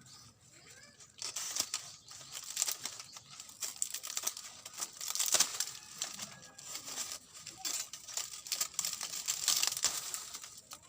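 Coconut-leaf thatch rustling, crinkling and tearing as it is pulled apart, in uneven bursts, loudest about five seconds in and again near the end.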